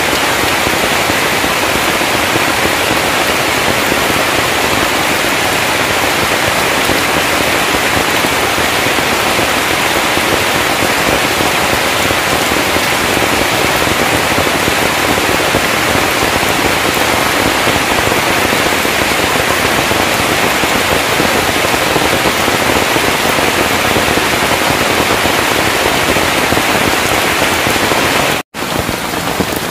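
Heavy rain pouring steadily, a dense even hiss. It cuts out for an instant near the end.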